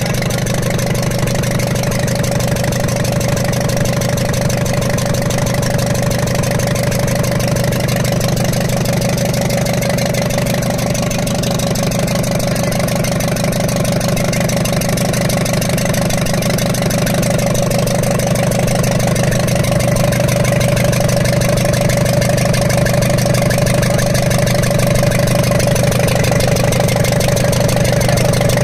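Ashok Leyland Captain BS4 truck's diesel engine idling steadily with an abnormal engine noise, a little louder in the second half. The mechanic traces the noise to a valve bridge that had slipped off the rearmost cylinder's rocker, which made it sound like a leaking injector.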